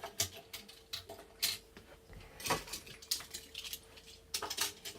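Small toy cars clicking and clattering as they are handled and set down together on a hard surface, a scattering of sharp clicks with a small cluster near the end.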